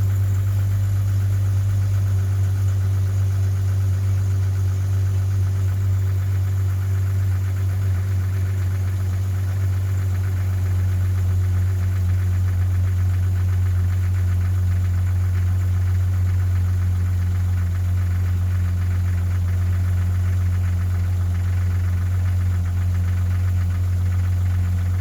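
1997 Jeep Grand Cherokee's 4.0-litre straight-six idling steadily with a rhythmic knock, which the owner takes for piston slap, a common noise in these engines.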